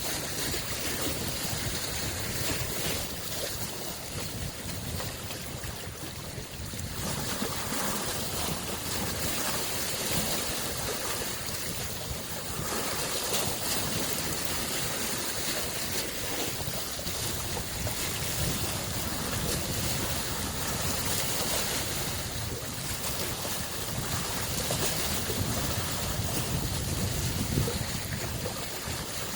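Small lake waves lapping and breaking on the shore, a steady wash of water that swells and eases every few seconds.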